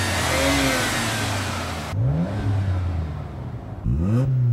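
Sports car engines idling at a race start line, blipped up in quick rising revs about two seconds in and again near the end, during the countdown to the start. A broad rushing hiss sits under them for the first two seconds and cuts off abruptly.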